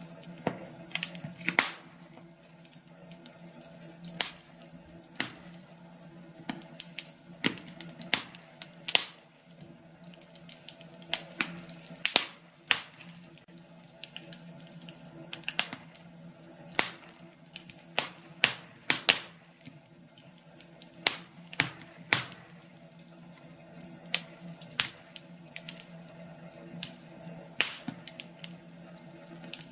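Wood fire crackling, with irregular sharp snaps and pops of burning logs, some much louder than others, over a steady low hum.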